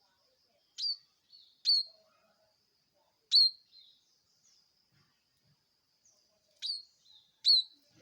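Bar-winged prinia (ciblek) giving sharp, shrill call notes: five short downward-sweeping chips, three in the first half and two more after a pause of about three seconds.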